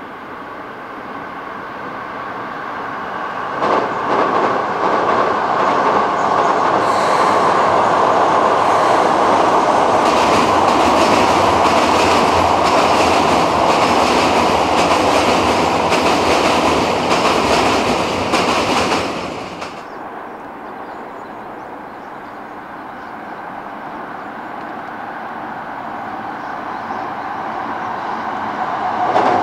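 Keikyu 1000 series electric train crossing a steel truss railway bridge: a loud rumble with wheel clatter over the rails, building over the first few seconds. It cuts off abruptly about two-thirds through, and a second train's rumble then grows steadily toward the end.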